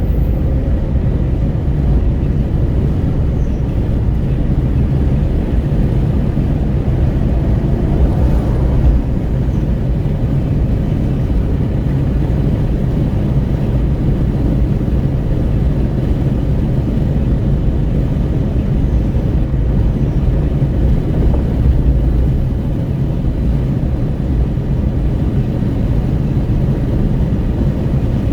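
Wind rushing at an open car window and tyre and road rumble in a Renault Kwid 1.0 at highway speed, a steady deep rumble. It swells briefly twice, about a third of the way in and again near three quarters.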